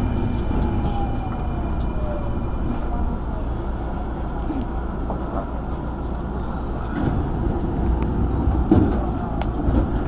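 Hanshin Main Line train standing at a station platform: a steady low rumble of the train's on-board equipment with scattered clicks and knocks, and a faint falling whine in the first few seconds.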